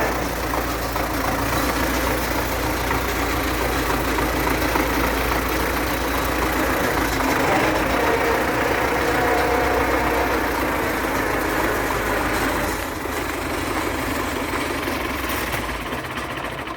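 MTZ (Belarus) tractor's diesel engine running steadily, with a constant mechanical rumble.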